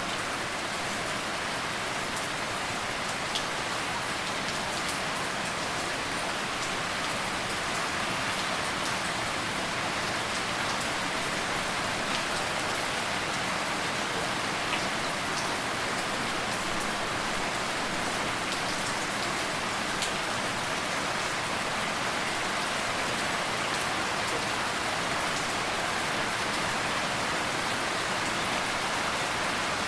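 Steady rain falling on a surface: an even hiss with scattered individual drops ticking through it.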